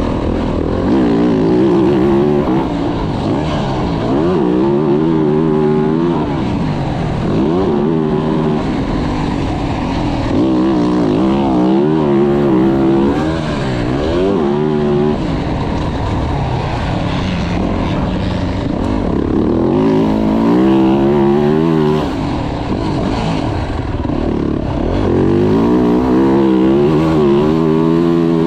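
2024 Yamaha YZ450F's single-cylinder four-stroke motocross engine, loud, revving up and falling back again and again as the bike is ridden around a track.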